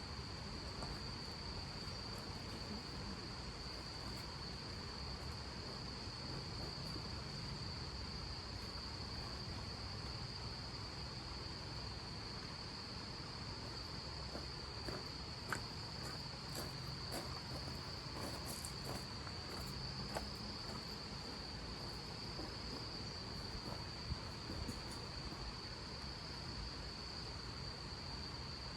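Insects trilling steadily at one high pitch, over a low rumble, with a few faint clicks around the middle.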